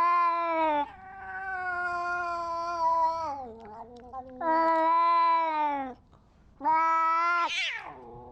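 A cat yowling: four long, drawn-out calls in a row, each held at a steady pitch and dropping at the end, the second one quieter.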